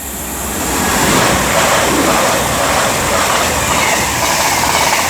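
Two coupled Class 220 Voyager diesel-electric units passing through at high speed: a loud, steady rush of wheel and air noise that builds over the first second and then holds.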